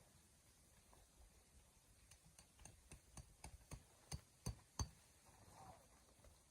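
A quick run of about a dozen short, sharp clicks and knocks, growing louder, with the last three the loudest, over near silence.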